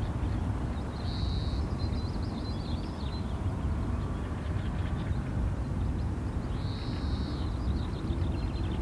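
Wild birds calling: two short high calls, about a second in and again near the end, each followed by a brief run of quick chirps, over a steady low rumble.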